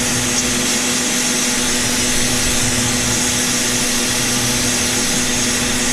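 Sandblaster blasting vise parts: a steady, loud hiss of air and abrasive grit, with a steady hum underneath.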